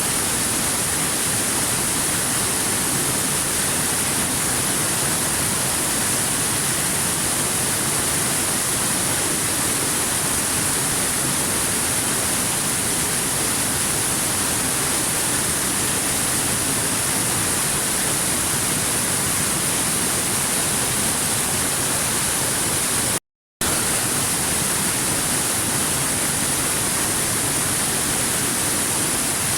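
Waterfall rushing, a steady, even roar of falling water with a strong hiss, broken once about 23 seconds in by a split-second drop to complete silence.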